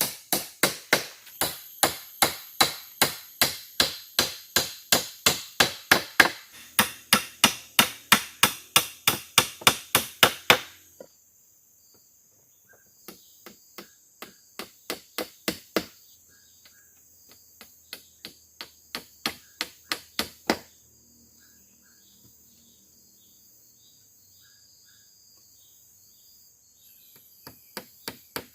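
Rapid chopping strikes on wood, about three a second, for the first ten seconds or so. Then two shorter runs of strikes that build in loudness, and a fresh run near the end. Under the pauses is a steady high buzz of forest insects.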